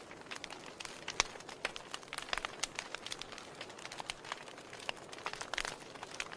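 Wood fire crackling in a fireplace: irregular sharp pops and snaps over a soft hiss, with one louder pop about a second in.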